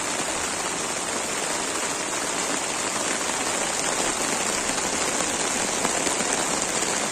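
Heavy rain pouring down steadily onto a tent flysheet and the wet grass around it, a dense unbroken hiss.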